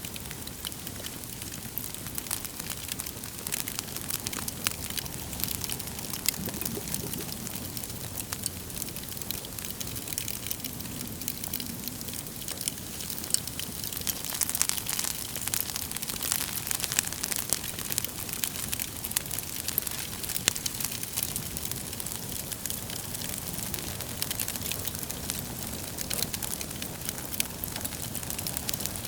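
Wood fire burning with a steady hiss and frequent sharp crackles and pops from the logs.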